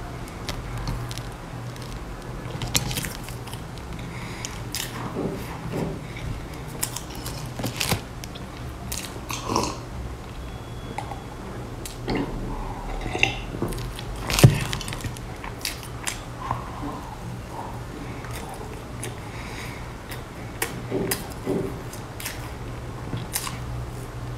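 Close-miked chewing and biting of a soft, crumb-coated layered cake, with wet mouth clicks and swallows over a steady low hum. A sharp knock about two-thirds of the way through.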